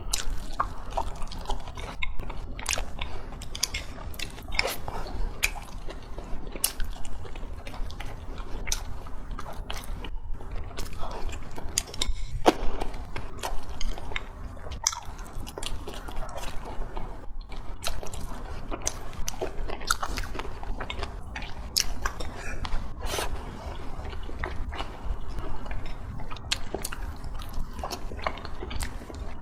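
Close-miked eating: a person chewing and biting with wet, irregular mouth clicks and smacks, over a steady low hum.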